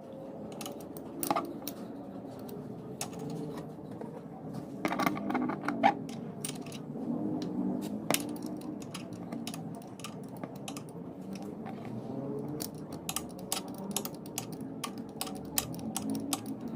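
Honda RS150 engine running with a steady hum and a clatter of sharp, irregular ticks over it, denser near the end: the noise that adjusting the tensioner is meant to cure.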